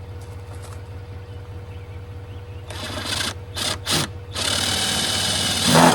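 Ryobi cordless drill boring a hole low in the wall of a plastic garbage can. It runs in a short burst, then three quick trigger pulses, then a steady run of about a second and a half that gets louder near the end as the bit cuts through.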